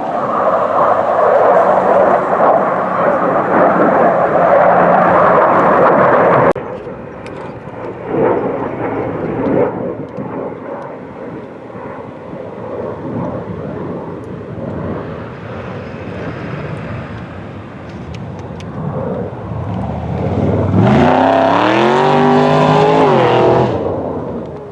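Aircraft engines at close range: a loud rushing engine noise that cuts off abruptly about six seconds in, then quieter engine noise, and near the end a loud pitched engine drone that rises and falls in pitch for a few seconds.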